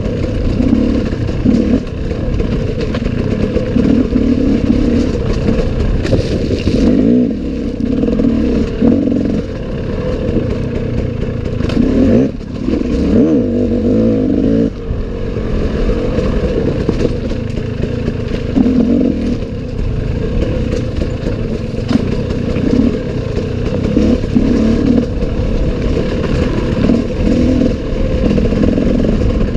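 Enduro dirt-bike engine running on a forest trail, revving up and down continually as the rider works the throttle, with some clatter mixed in.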